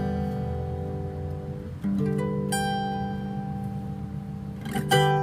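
Guitar played fingerstyle: plucked chords left to ring, with a new chord about two seconds in and another near the end.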